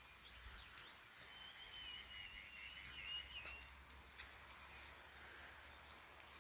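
Faint bird song over a low background hiss: a few short chirps, then a wavering, trilling call from about a second in that lasts a couple of seconds.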